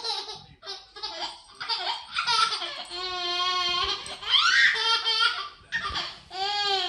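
A baby laughing in a string of high-pitched bursts and squeals, one drawn out for about a second midway.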